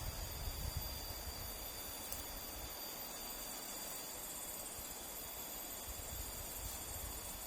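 Insects chirring steadily in several high, unbroken tones over a faint even hiss.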